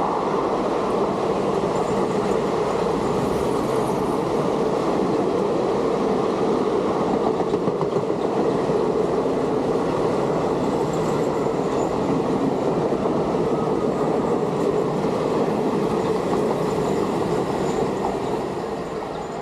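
Coaches of an Indian Railways express train running past at speed, a steady rolling rumble of wheels on rail. It begins to fade near the end as the tail of the train goes by.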